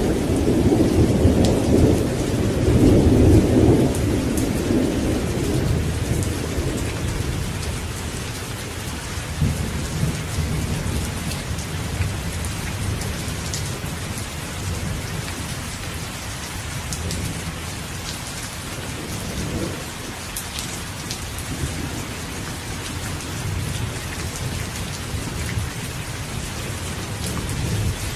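Steady heavy rain with a rumble of thunder in the first few seconds that fades away, then rain alone with faint distant rumbles.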